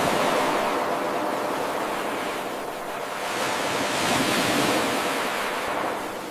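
Ocean waves washing onto a shore: a steady rushing surf that swells, eases off about three seconds in, then builds again and falls away near the end.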